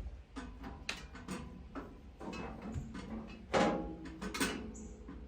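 Irregular metallic clicks and knocks of hand tools and parts being handled, with a louder clank that rings briefly about three and a half seconds in.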